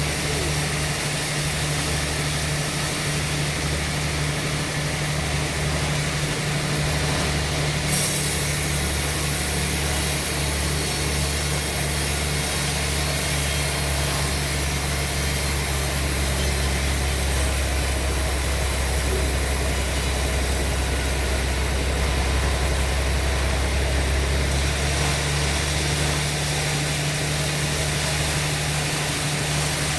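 Sawmill machinery running steadily: an engine hum under a wide hiss of saw and machine noise. The hiss brightens suddenly about eight seconds in, and for several seconds in the middle the engine's note drops lower and deepens before returning.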